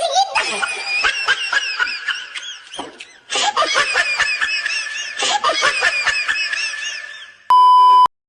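High-pitched laughter, fast and continuous, dropping off briefly about three seconds in before resuming. Near the end, a loud steady beep lasts about half a second.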